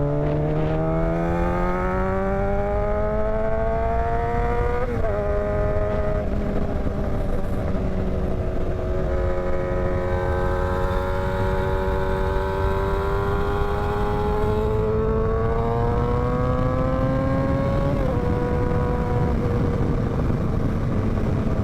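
Motorcycle engine pulling under acceleration, its pitch rising for about five seconds and then dropping suddenly at an upshift. It then climbs slowly again before another upshift about eighteen seconds in.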